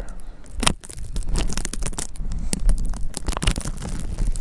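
Crinkling and rustling of the lunch bag wrapped around the camera, with many irregular crackles and clicks. A low wind rumble on the microphone runs beneath.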